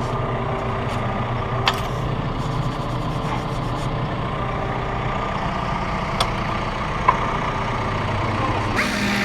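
Heavy diesel engine running steadily at idle, with a few short sharp knocks over it.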